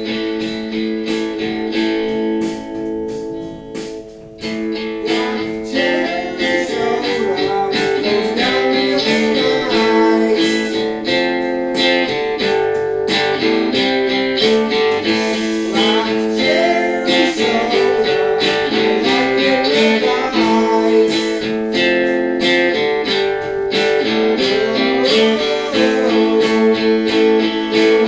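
Playback of a home-recorded song: guitar chords over a steady drum beat, with a man singing joining about six seconds in.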